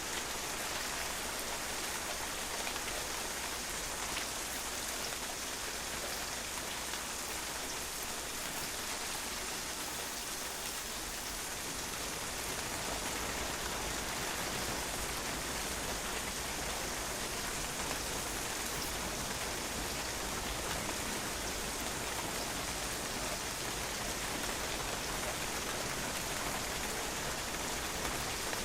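Steady rain falling on a patio, a dense even hiss of drops with fine individual splashes.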